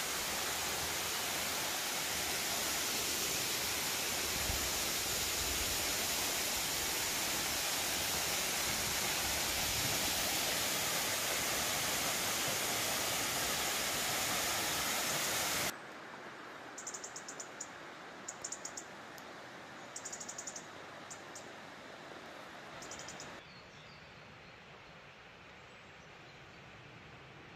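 Small waterfall's steady rush of falling water for the first fifteen seconds or so, cutting off abruptly. Then a quieter background where a bird chirps in short bursts about five times, and near the end it drops quieter still.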